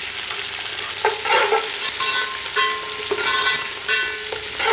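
Sliced onions, garlic, green chillies and herbs sizzling in ghee in an aluminium pot while a metal ladle stirs them. The ladle scrapes and rings against the pot several times over a steady frying hiss.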